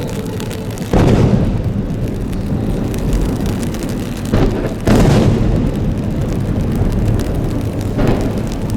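Aerial fireworks shells bursting: a loud boom about a second in, two more close together around the middle, and another near the end, each followed by a low rolling echo.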